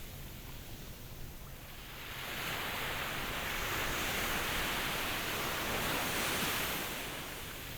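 Ocean waves: the hiss of surf swells about two seconds in as a wave washes in, holds for a few seconds, then eases off near the end.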